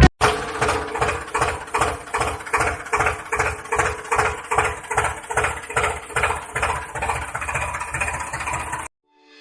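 Tractor engine idling with an even chug of about three beats a second; it cuts off suddenly near the end.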